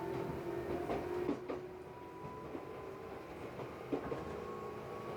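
Tobu 8000 series electric train running, heard from inside the car: its motors and gears give a steady whine that rises slowly in pitch as the train gathers speed, with a few clicks from the wheels over rail joints.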